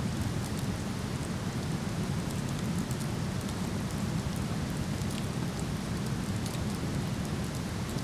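Steady low rush of a waterfall, with a wood campfire crackling over it in frequent small, sharp pops.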